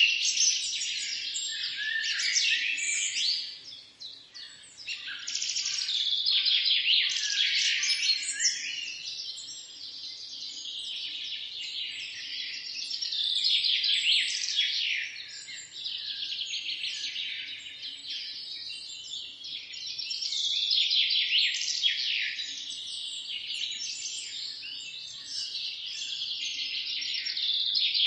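Many small songbirds chirping and singing at once, a dense chorus of quick high calls and short falling notes. It thins out about four seconds in, then swells again several times.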